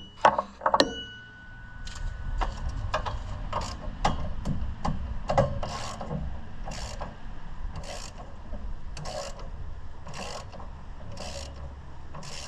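Hand ratchet wrench working a bolt loose on an Oliver 77 tractor engine, clicking through repeated back-and-forth strokes. A few sharp clicks come first, then the strokes settle into about one a second.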